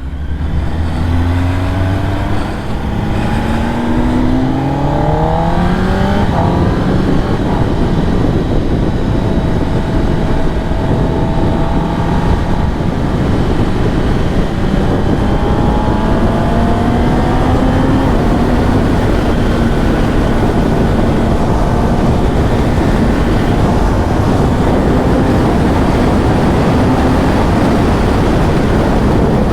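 2023 Kawasaki ZX-10R's inline-four engine accelerating hard, its pitch climbing and dropping back with each gear change over the first several seconds. It then runs steadily at highway speed under heavy wind noise on the microphone.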